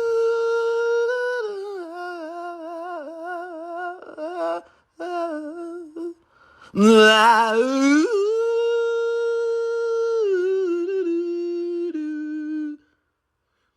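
Two long howls from a single voice, each swooping up at the start and then held on one steady note for about five seconds. The second howl starts about seven seconds in.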